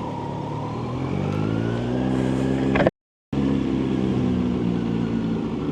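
Motorcycle engine running on the move, its pitch rising as it accelerates over the first few seconds, then running fairly steadily. The sound cuts out completely for a moment about three seconds in.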